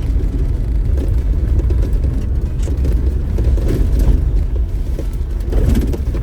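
Off-road vehicle driving slowly over a rough dirt trail: a steady low engine and tyre rumble with brief rattles and crunches from the bumps, about three seconds in, around four seconds and near the end.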